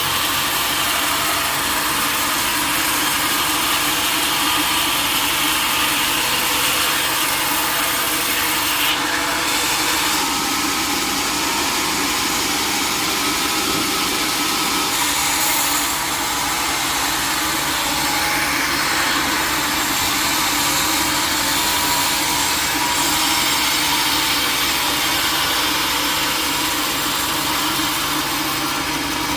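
Sawmill saw running and cutting teak wood: a steady, even noise over a low, constant machine hum.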